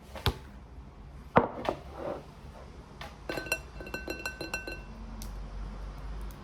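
Tableware being handled: a few sharp knocks, then a quick run of ringing clinks lasting about a second and a half.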